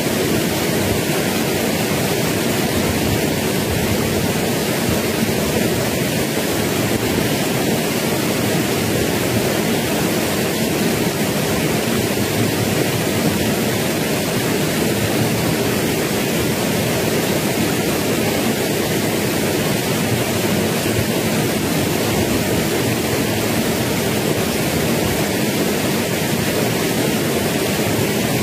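Rushing water of a stream near the foot of a waterfall: a loud, steady, unbroken roar.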